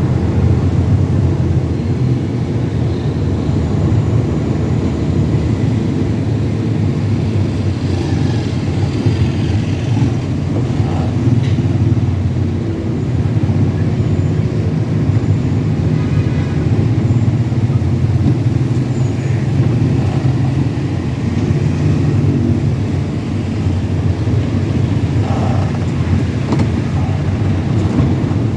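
Heavy truck's engine running steadily with a continuous low rumble of engine and road noise.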